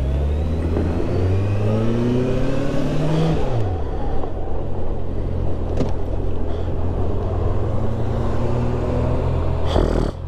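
Suzuki GSX650F's inline-four engine accelerating, its pitch rising for about three and a half seconds, then dropping sharply at an upshift, then pulling steadily.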